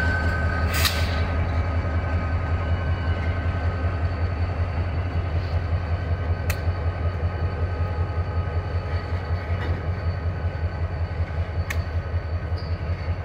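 CSX freight train's diesel locomotives rolling past and away with a steady low engine drone, with the first freight car following on the rails. Three sharp clicks come through, one near the start, one in the middle and one near the end.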